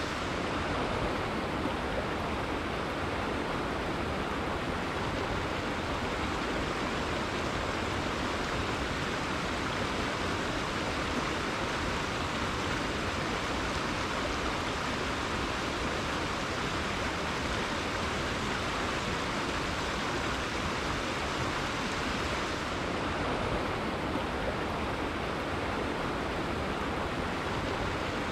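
Rainforest river flowing: a steady, even rush of running water.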